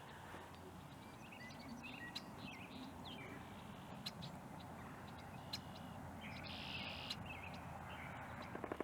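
Several wild birds chirping and trilling, with short scattered calls and one longer buzzy call about two-thirds of the way through, over a steady rushing background.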